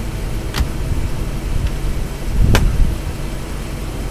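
A 1962 Cadillac Eldorado's 390 V8 idling steadily, with a sharp click about half a second in and a louder clunk about two and a half seconds in from inside the car.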